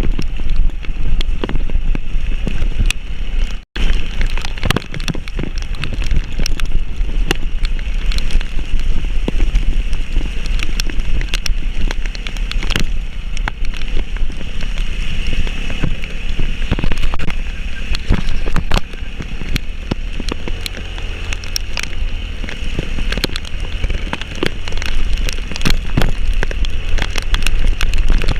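Heavy rain with wind buffeting the microphone: a steady low rumble and hiss, with many sharp taps of raindrops hitting close by. The sound cuts out for an instant a little under four seconds in.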